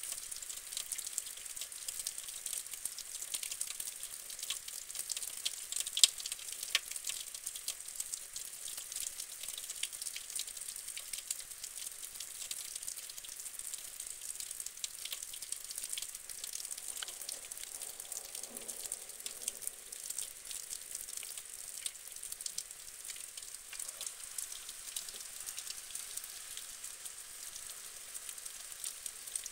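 Steady hiss of rain with a dense crackle of drops striking close by, and one sharper, louder tick about six seconds in. No thunder rumble is heard.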